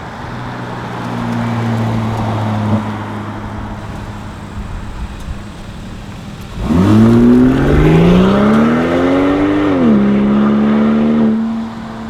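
Turbocharged 3.0 L inline-six of a 2015 Volvo V60 R-Design through a KPAX Performance exhaust, running at a steady, even note. About two-thirds in it is opened up hard: the exhaust note climbs steadily for about three seconds, drops sharply when the throttle comes off or the gear changes, holds steady, and gets quieter just before the end.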